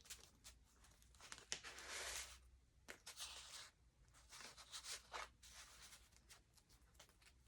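Faint rustling and soft swishes of thick journal pages made of glued magazine paper being handled and turned, with a few small taps.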